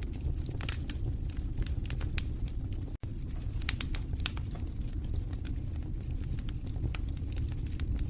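Wood fire burning in a fireplace, crackling with frequent sharp pops and snaps over a steady low rumble of the flames. The sound drops out for an instant about three seconds in.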